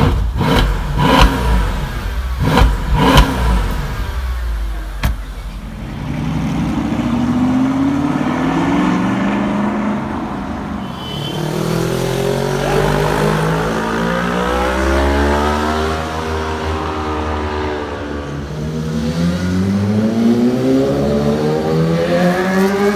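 High-performance car engines revving and accelerating, with several sharp exhaust cracks in the first few seconds, then engine pitch rising and falling in long sweeps and climbing again near the end.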